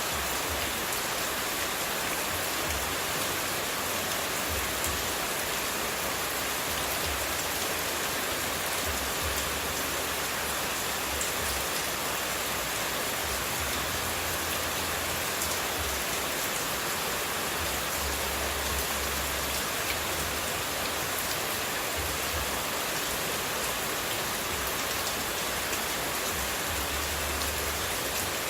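Continuous running-water white noise: an even, steady rushing hiss with faint scattered drip-like ticks and a low rumble that comes and goes.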